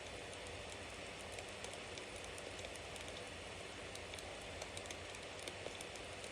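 Wood fire crackling: a steady hiss with frequent small, sharp pops and snaps scattered through it.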